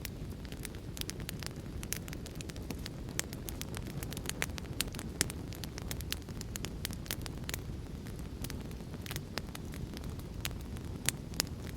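Wood fire crackling in a fireplace, with irregular sharp snaps and pops several times a second, over a steady low rushing of rain.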